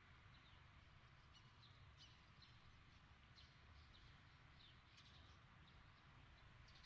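Faint outdoor quiet with small birds giving a string of short, high chirps over a soft low rumble.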